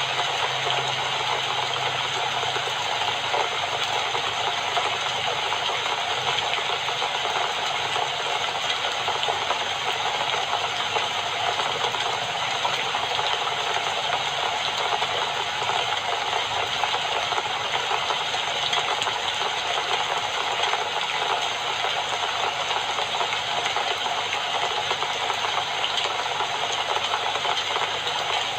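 Steady rain falling: a dense, even hiss that holds at the same level throughout.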